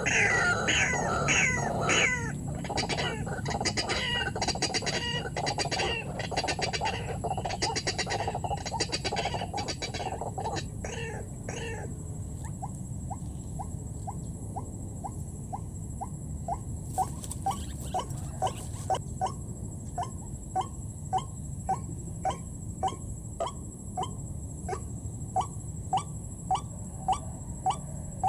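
White-breasted waterhen calling: a fast run of repeated falling calls and dense chattering for about the first twelve seconds, then a steady series of short rising notes, about two a second.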